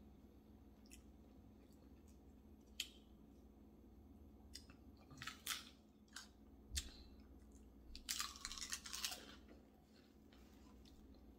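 Faint chewing and crunching of a fried crab rangoon, heard as scattered short crunches and a longer crunching stretch about eight seconds in.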